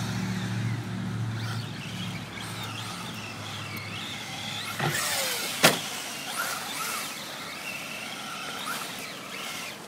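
Electric motor of a 1/10-scale Traxxas rally RC car whining and changing pitch as it drives. About halfway through there is one sharp knock.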